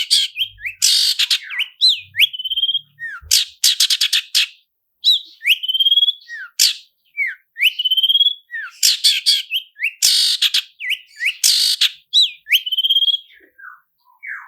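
Long-tailed shrike (cendet) singing in repeated phrases: a rising whistled note followed by a fast, harsh rattling trill, over and over.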